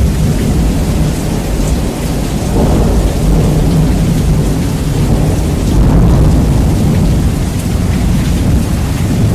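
Heavy rain with rolling thunder, bass boosted until it distorts: a loud, steady wash dominated by deep rumble, swelling a couple of times.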